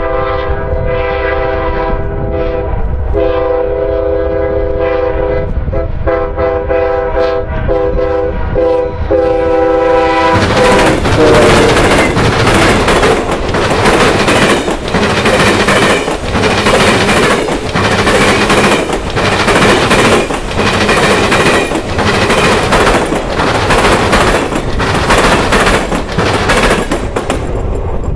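Amtrak P42DC locomotive's chord horn sounding in a string of blasts, the last ones short, as the train approaches. About ten seconds in, the locomotives pass and the passenger cars' wheels pound over the rail crossing diamond in a loud, even clatter of about one beat a second, which stops near the end as the last car clears.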